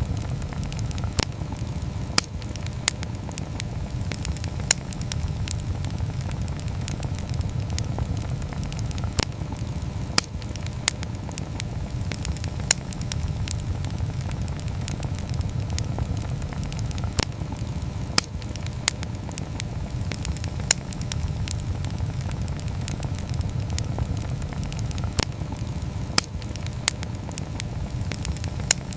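Wood campfire burning: a steady low rumble of flames with irregular sharp crackles and pops from the burning wood, several in most seconds.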